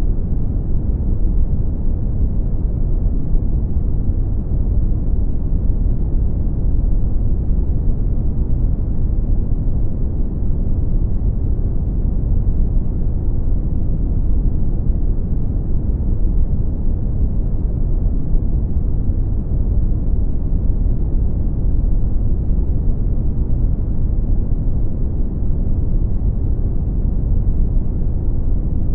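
Brown noise: a steady, deep rumbling hiss, weighted toward the low end, unchanging throughout.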